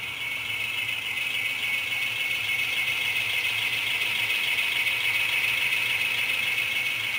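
HO-scale model train running along the track: a steady rattling whir of small wheels and motor close by, growing slightly louder.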